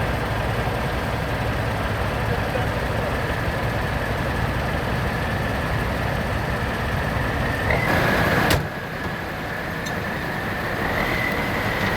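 Heavy diesel military truck engine running steadily under a steady high whine. About two-thirds of the way in comes a loud, noisy burst lasting under a second that cuts off suddenly, and the engine runs quieter afterwards before building up again.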